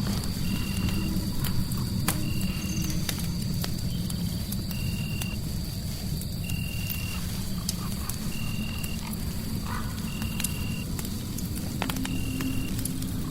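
Crackling fireplace with sharp pops over a low steady rumble, mixed with a short high chirp repeating evenly about every two seconds and a thin steady high tone.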